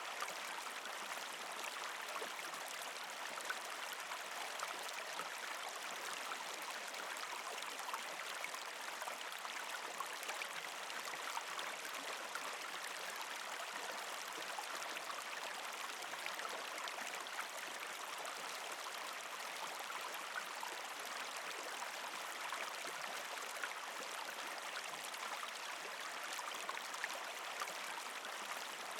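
Partially frozen creek flowing steadily, water trickling and gurgling over rocks, with many small splashes and ticks.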